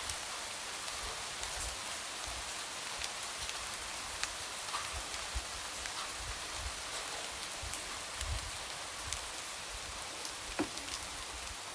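Light rain falling steadily in an even hiss, with scattered individual drops tapping against a window.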